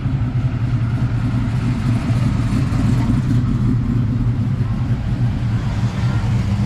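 Classic American cars' engines rumbling steadily as they cruise slowly past, the loudest being a white 1957 Chevrolet sedan rolling by close near the end.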